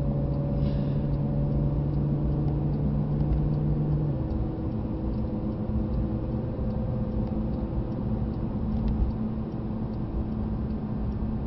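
Porsche 911 GT3's flat-six engine running steadily at low speed, heard inside the cabin over tyre and road noise. Its strongest low note drops away about four seconds in, and the higher engine tones carry on.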